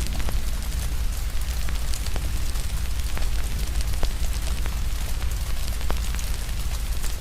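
A wood fire crackling, with scattered sharp pops several times a second, over a steady hiss of rain and a low rumble.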